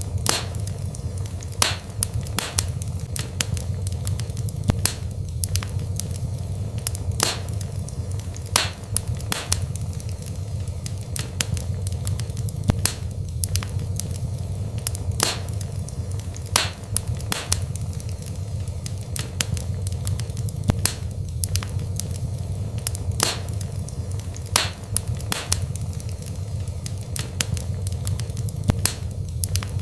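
Wood fire burning in a fireplace: sharp, irregular crackles and pops, a few each second, over a steady low rumble of the flames.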